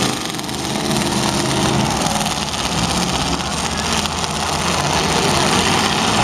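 Several demolition derby cars' engines running together in a steady, loud mix.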